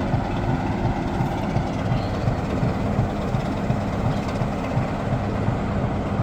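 Heritage British Rail diesel locomotive engine idling at a standstill: a steady low running note with a fast, even pulse.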